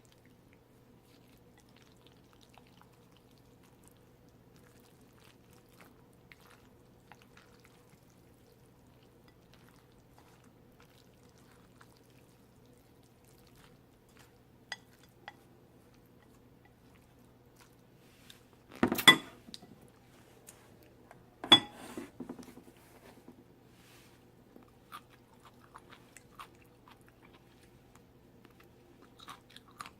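Faint eating and tableware sounds from a bowl of jjolmyeon, spicy chewy cold noodles: scattered small clicks over a low steady hum. Two louder, noisy bursts about a second long come near the middle of the stretch, a couple of seconds apart.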